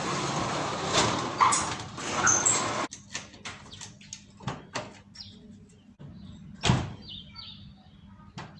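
Car door and in-cabin handling noises before the engine is started: a rush of noise for about three seconds that cuts off sharply, then scattered clicks and knocks with one sharp thump a little before the end.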